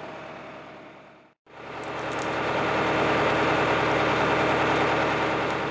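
John Deere 2750 tractor's diesel engine running steadily; the sound fades out, cuts off abruptly about a second and a half in, then fades back in louder and runs on evenly.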